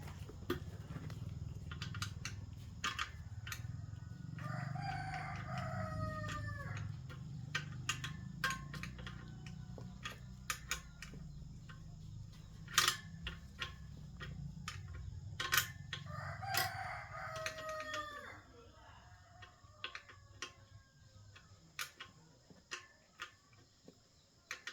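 A rooster crowing twice, about five seconds in and again about twelve seconds later, each crow about two and a half seconds long and falling at the end. Scattered sharp clicks and knocks sound throughout, over a low rumble that drops away near the end.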